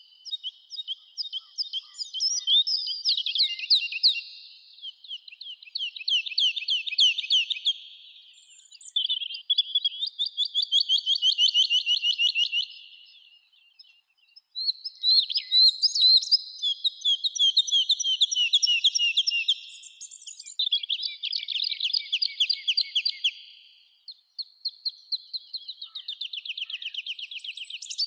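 Songbird singing in a summer forest: a run of fast, high trilled phrases, each lasting a few seconds, with short pauses between them.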